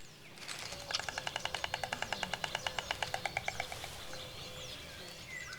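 White stork clattering its bill: a rapid, even rattle of about ten clacks a second lasting around three seconds. This is the display storks make on returning to the nest. Small songbirds chirp faintly behind it.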